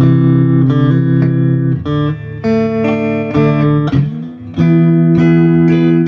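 Electric guitar played through a Fender Super Reverb tube amp: a series of chords struck and let ring, with a short dip in level about four seconds in before the next chord.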